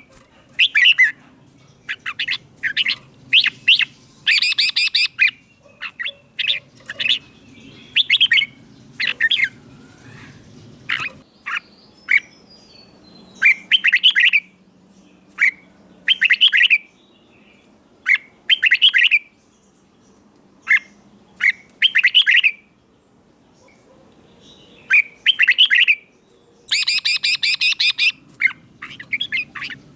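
Red-whiskered bulbul singing: short, loud whistled phrases repeated in quick bursts, with a few pauses of a second or two between runs.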